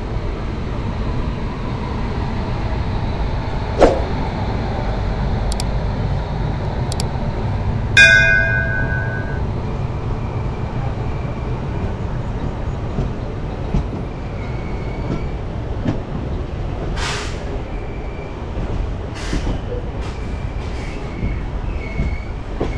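Passenger train rolling slowly along the track: a steady low rumble of wheels on rail with scattered clanks, and a brief shrill tone about eight seconds in.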